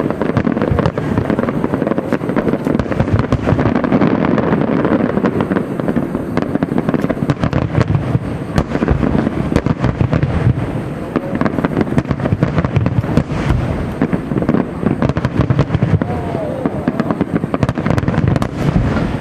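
Aerial fireworks display: a dense, continuous barrage of shell bursts and crackling, with no pauses.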